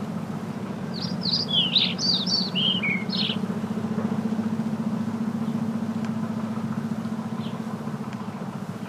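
Small bird chirping a quick run of high notes for about two seconds, starting about a second in, over a motor running steadily with a low, evenly pulsing drone.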